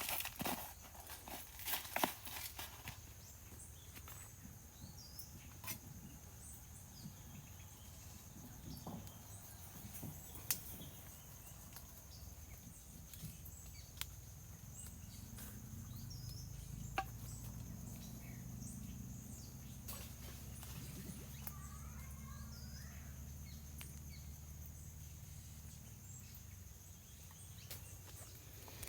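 Riverside forest ambience: a steady high-pitched insect drone, with scattered short bird chirps and a few sharp clicks. A low rumble comes in about halfway through and holds to the end.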